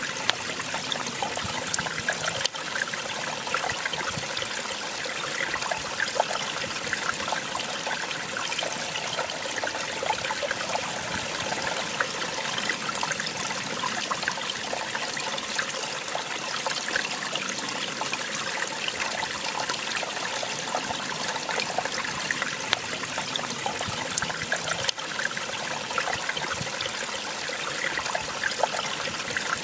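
Small waterfall: water splashing and trickling over rocks in a steady, even rush. Two sharp clicks stand out, one a couple of seconds in and another near the end.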